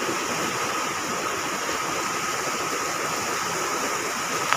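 Steady rushing of fast-flowing floodwater in the swollen Teesta River.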